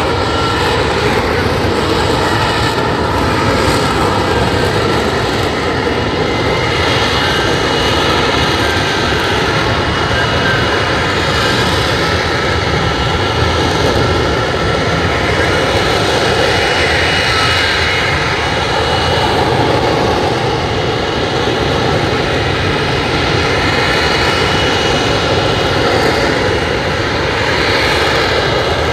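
Lockheed Martin F-35 Lightning II fighter jet in flight, its single turbofan engine making a continuous loud jet noise with a whine in it. The noise swells and eases slightly a few times.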